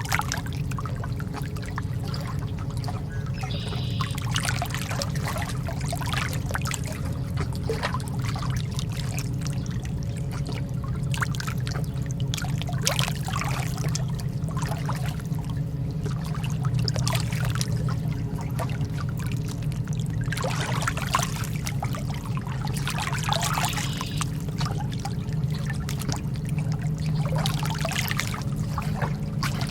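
Calm lake water lapping and splashing in small, irregular splashes over a steady low rumble.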